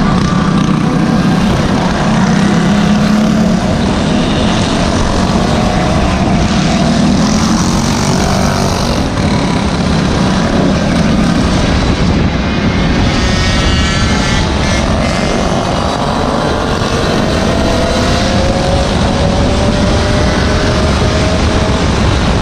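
Small petrol engine buzzing steadily while riding, with noise from the rush of air. In the second half its pitch rises several times as it is throttled up.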